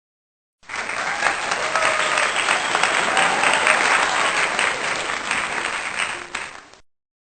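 Applause sound effect: a crowd clapping, a dense patter that starts abruptly about half a second in, keeps going for about six seconds and then dies away.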